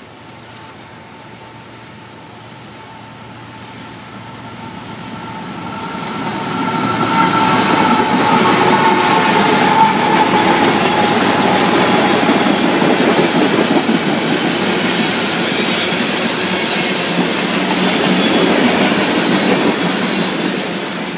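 Freight train passing close by: the diesel locomotives' rumble builds as they approach, getting loud about seven seconds in, then a long string of hopper cars rolls past with the steady clatter of wheels on rail.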